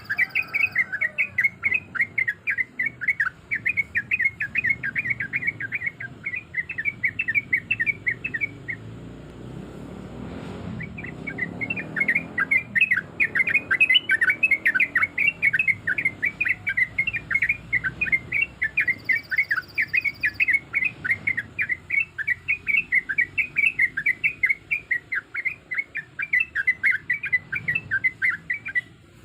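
Yellow-vented bulbul (trucuk) singing a long, rapid run of short chattering notes, breaking off briefly about a third of the way in and then starting again.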